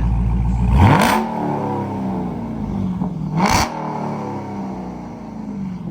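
2023 Dodge Charger Scat Pack's 6.4-litre 392 Hemi V8 with its mid muffler deleted, idling and then blipped twice, about a second in and again about three and a half seconds in. Each rev rises sharply and falls back slowly to idle.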